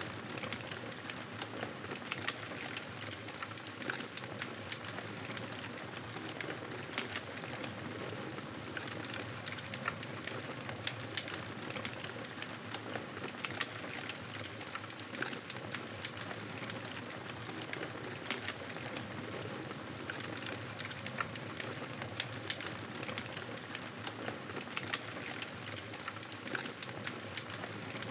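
Wood campfire crackling: a steady hiss with frequent sharp pops and snaps throughout.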